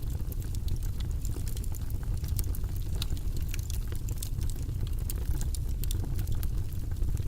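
Wood logs burning in a fireplace: many sharp, irregular crackles and pops over a steady low rumble of the flames.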